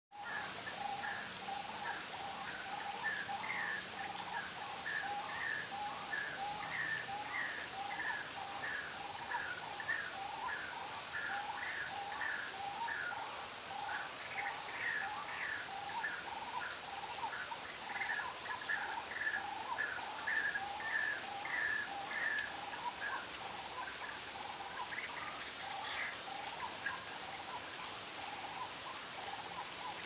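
A bird calling in a quick run of short chirps, about three a second, at two pitches, stopping near the end, over a steady high hiss.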